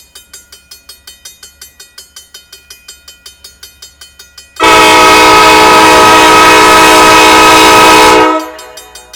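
A grade-crossing bell ringing quickly and evenly as a diesel locomotive's multi-chime air horn sounds one long, loud blast from about halfway in; the horn stops after nearly four seconds and the bell rings on.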